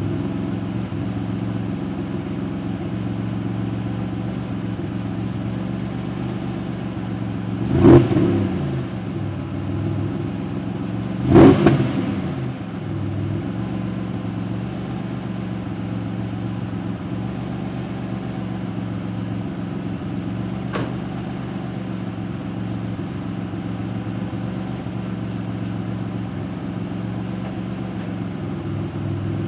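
GM L67 supercharged 3.8-litre V6 idling steadily at a raised idle, its exhaust leaks repaired. The throttle is blipped twice, about 8 and 11.5 seconds in, each a short rev that rises and falls back to idle, with a slight blip near 21 seconds.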